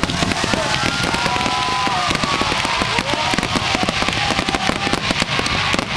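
Aerial fireworks crackling densely, a rapid continuous patter of small bursts, with a few whistling tones gliding in pitch in the first half.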